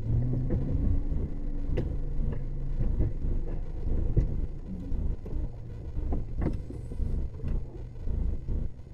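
Steady low engine and road rumble of a car being driven, with a few faint clicks.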